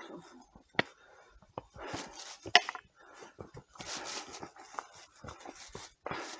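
Hikers breathing hard while climbing uphill, a heavy breath about every two seconds, with a few sharp taps of footsteps on the trail.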